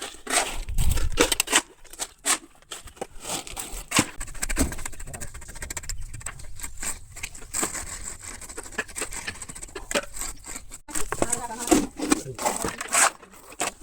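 Hand tools working concrete, giving irregular scrapes and knocks at an uneven pace, with people talking at times.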